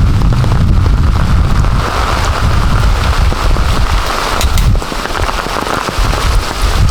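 Heavy rain pouring down in a dense, steady hiss, over a strong low rumble that eases for a couple of seconds after the middle and then returns.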